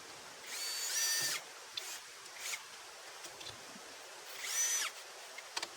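A small electric power tool whirring in two short bursts, one about half a second in and a shorter one about four seconds in, each spinning up and winding down.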